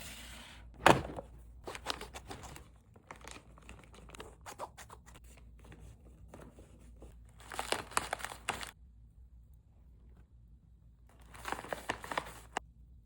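Food packaging being crinkled and torn open by hand in three bursts, with a sharp knock about a second in.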